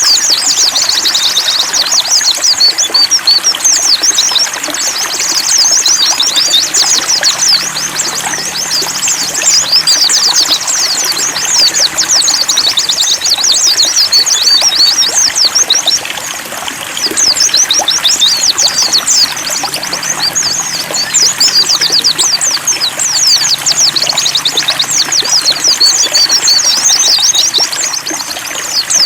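White-eyes (pleci) chirping and singing in a dense, rapid, unbroken stream of high notes, over water trickling steadily.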